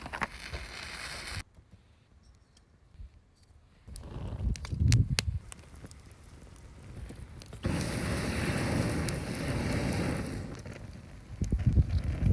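A few knocks and bumps of handled gear, then a wood campfire burning with a steady crackling hiss for about three seconds, followed by more knocks.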